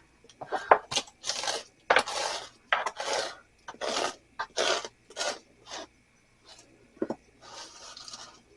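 Wooden scraper scraping built-up ice off the inside of a mini fridge's freezer compartment: a series of short rasping strokes, about two a second, fainter near the end.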